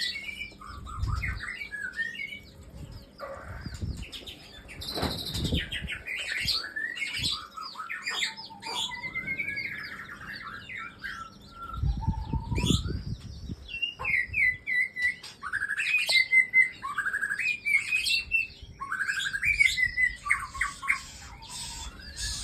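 Small birds chirping and calling in quick, varied, rising and falling notes, with a few low bumps or rustles mixed in.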